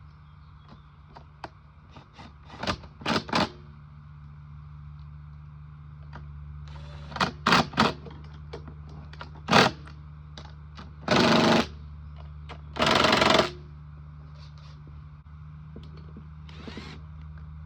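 Tools and metal parts clicking and knocking during reassembly of a lawn mower's carburetor and engine parts, with two short, loud rattling bursts from a hand power tool about eleven and thirteen seconds in, over a steady low hum.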